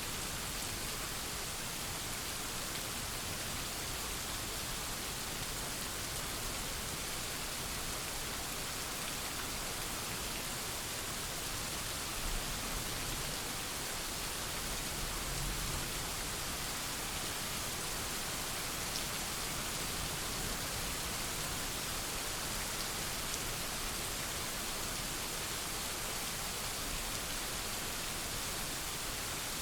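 Steady rain falling in a thunderstorm, an even hiss. A brief low rumble of distant thunder swells and fades about halfway through.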